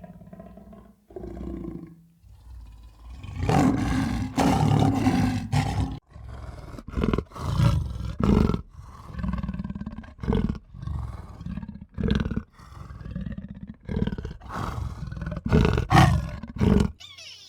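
An animal calling loudly and repeatedly, in a string of short calls, each under a second long, with a few longer ones near the start.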